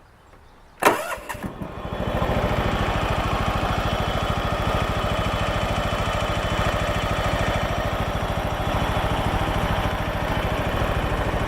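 John Deere LX172 lawn tractor's single-cylinder Kawasaki engine starting: a sharp click under a second in, then it catches and comes up to speed within about a second and runs steadily with an even pulsing beat.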